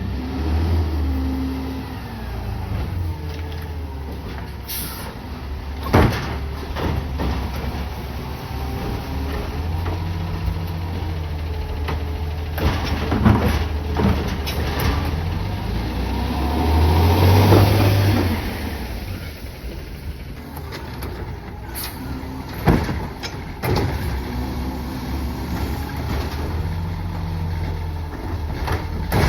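CNG garbage truck (Peterbilt 520 with a Bridgeport Ranger split body) running, its engine revving up and down several times, most strongly about two-thirds of the way through. Sharp clanks and knocks come now and then.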